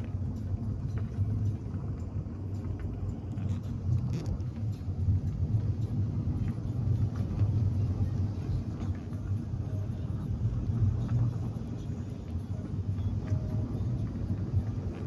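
Steady low rumble of a car on the move, running unbroken with small rises and falls in level.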